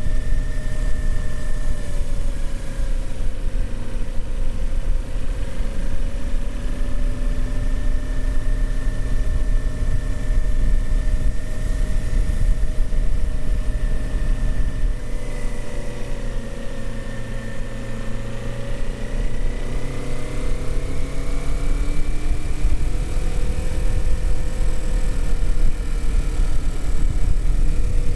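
Kawasaki Z400's parallel-twin engine running steadily while riding, heard from on board over road and wind noise. The engine pitch wanders slowly, easing off about halfway through and rising again toward the end.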